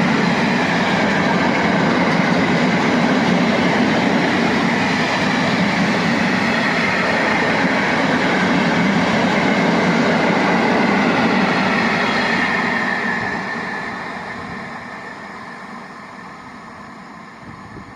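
Freight train of Talbot hopper wagons rolling past on the rails, a loud, steady rumble of wheels on track that fades away over the last few seconds as the end of the train passes and recedes.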